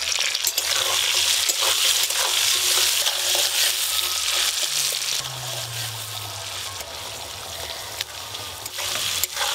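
Taro pieces frying in hot oil in a metal wok: a steady sizzle, with the taps and scrapes of a metal spatula stirring. The sizzle eases off about halfway through.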